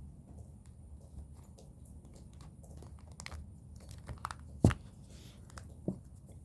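A deck of Lenormand cards being handled and shuffled: soft rustles and light clicks of card stock, with one sharp tap a little past halfway and a smaller one about a second later.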